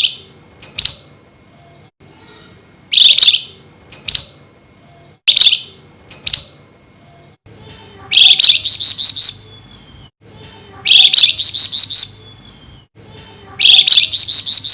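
Songbird known in the Indonesian bird trade as 'flamboyan' giving loud, harsh chattering calls (nyerecet). Early on the notes come in pairs about a second apart; from about eight seconds in they come as three quick runs of five or six notes.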